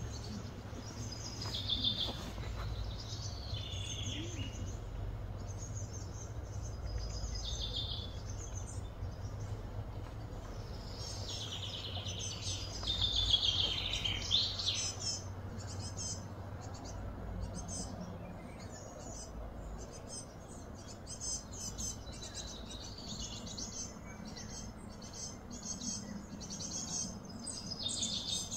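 Wild birds calling and chirping over a steady low outdoor rumble. About halfway through comes a louder run of high, sliding calls, followed by many quick, short chirps.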